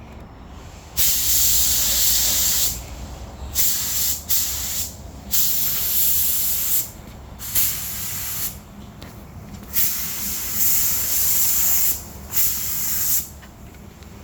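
Spray gun hissing in about eight on-off bursts, each half a second to two seconds long, like a painter's passes over a panel.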